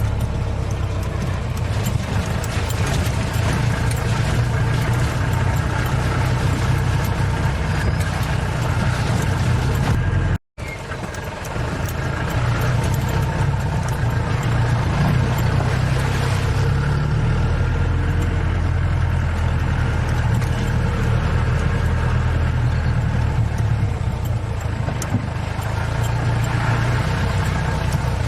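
Safari vehicle's engine running steadily while driving, a low hum under road and wind noise. The sound drops out briefly about ten seconds in, then continues with a slightly deeper hum from about halfway on.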